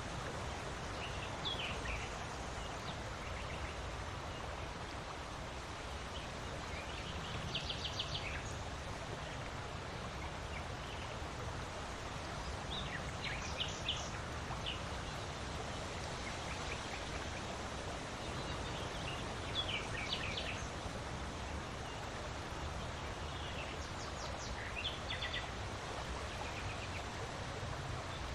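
Steady wind noise, with a small bird repeating a short series of quick high chirps every five or six seconds.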